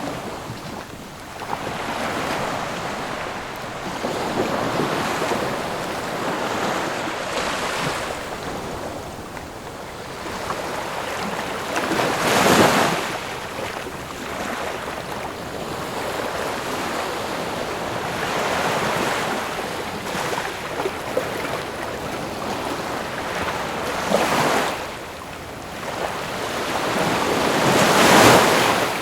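Ocean waves breaking on a shore, a steady wash with surges every few seconds; the biggest break comes about halfway through and another near the end.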